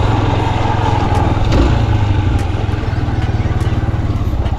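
Yamaha XTZ 125's single-cylinder four-stroke engine running steadily at low speed, its exhaust pulsing evenly.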